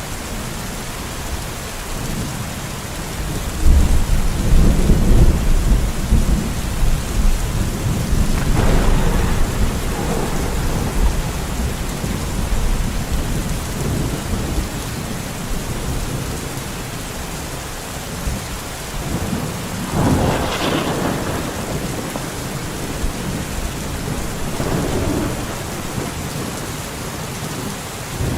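Steady rain falling in a forest, with rolls of thunder: the loudest a long low rumble that starts about four seconds in, and more rumbles around nine and twenty seconds.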